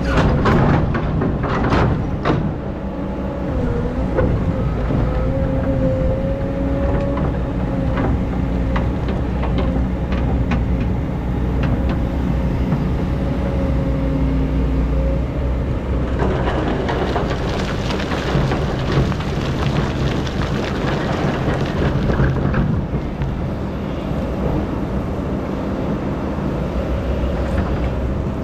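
Excavator at work: the diesel engine runs steadily under load with a wavering hydraulic whine, and sharp knocks come near the start. About sixteen seconds in, a rough scraping noise joins for several seconds, then fades.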